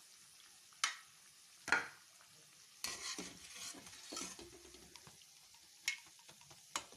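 Deep-frying oil sizzling softly in a kadai as sweet bondas are lifted out, with several sharp metal clinks of the utensil against the pan.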